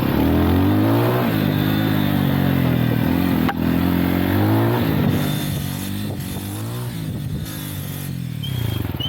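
Lifan Xpect dual-sport motorcycle's single-cylinder engine revving up and down as it is ridden, its pitch rising and falling several times, with one sharp click about three and a half seconds in. About five seconds in it eases off to a lower, quieter note.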